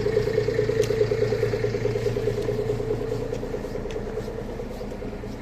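A vehicle engine running steadily, with a low hum and a pulsing mid-pitched drone, fading gradually over the second half.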